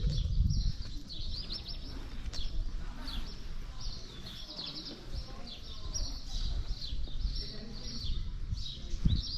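Small songbirds chirping and twittering in quick repeated trills, over a steady low rumble.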